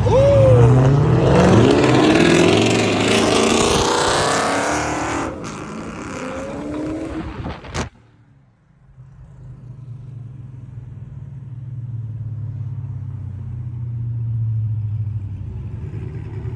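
Car engine revving hard and accelerating, its pitch rising, loud for about five seconds and then fading away. A sharp click comes near the middle, followed by a low, steady engine drone.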